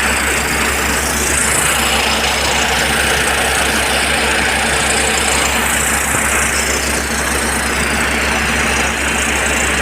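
PG 600-100 jackhammer on a pusher leg running steadily, a continuous loud rapid hammering.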